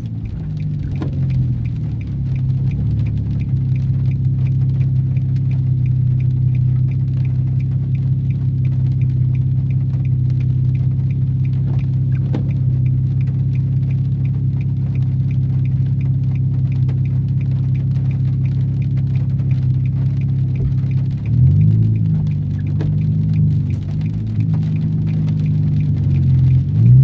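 Nissan 350Z Nismo's 3.5-litre V6 idling steadily at a stop, heard from inside the cabin. The engine note falls as it slows at the start, wavers briefly about two-thirds through, and begins to rise as the car pulls away right at the end.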